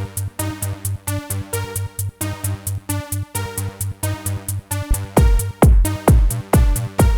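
Electronic tech house pattern playing from a Korg Electribe Sampler ES2: quick, evenly repeating pitched sample stabs over a steady bass. A kick drum comes in about five seconds in, beating steadily about twice a second.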